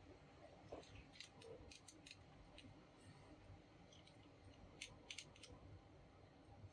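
Faint scattered clicks and light ticks of small parts being handled, in a cluster about a second in and another around five seconds in.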